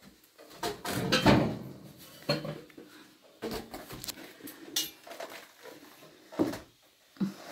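Irregular metallic clanks and knocks as sections of a sheet-metal stovepipe are handled and fitted together, with the loudest clatter about a second in.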